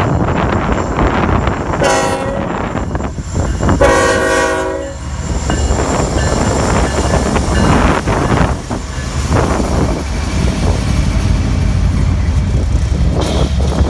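Diesel freight locomotives rumbling past slowly. A locomotive air horn sounds twice: a short blast about two seconds in, then a longer one about four seconds in.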